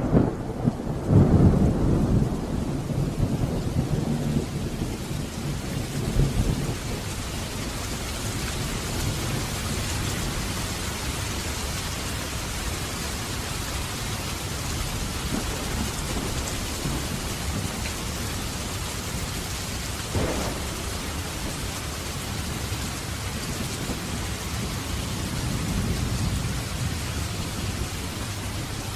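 Steady rain, with a low rolling rumble during the first several seconds that dies away. One brief knock about twenty seconds in.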